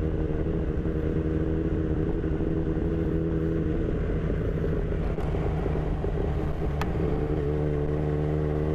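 Kawasaki Z1000's inline-four engine running steadily under way, holding a nearly constant pitch while cruising, heard from the rider's position.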